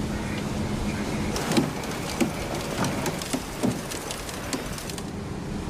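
A steady motor hum over a haze of noise, fading out about a second and a half in, then scattered sharp taps and clicks over the continuing noise.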